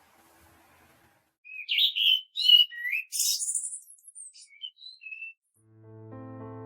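Parrot calls: a run of short chirps and whistles with gliding pitch and one harsher, scratchier call in the middle, lasting about four seconds. Soft piano music fades in near the end.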